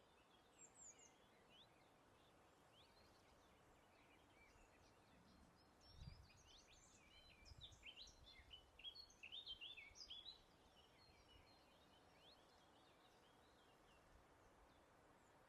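Faint birdsong: several small birds chirping and twittering in short quick notes, thickening into a busier burst of song in the middle before thinning out again, over a soft steady hiss. A brief low rumble comes with the start of the busier stretch.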